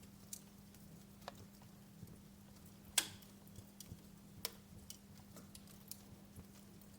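Wood fire crackling with scattered pops and snaps. The sharpest pop comes about three seconds in, with a brief ring-out, and another strong snap follows about a second and a half later. A faint steady low hum runs underneath.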